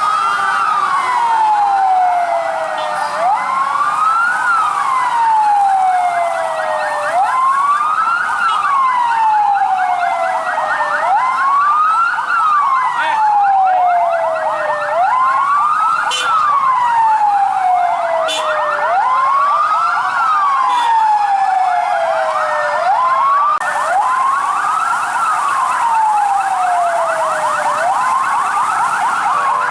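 Fire truck sirens: one wails, rising quickly and falling slowly about every four seconds, over the rapid warble of another siren.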